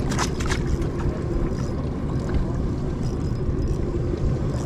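Steady low rumble of a fishing boat out at sea, with a faint steady hum over it and a few short knocks in the first half-second.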